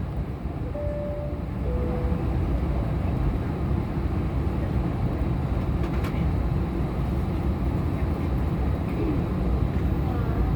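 Steady low rumble of an Airbus A320's passenger cabin, the drone of the aircraft's air system and engines. About a second in comes a soft two-note falling chime, typical of the cabin chime.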